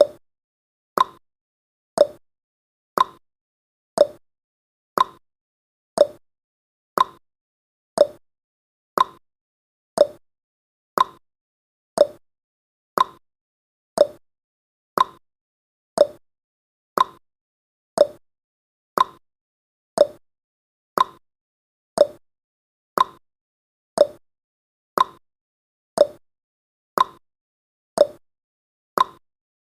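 Clock-style tick-tock sound effect of a countdown timer: one sharp tick each second, alternating between a higher and a lower pitched stroke.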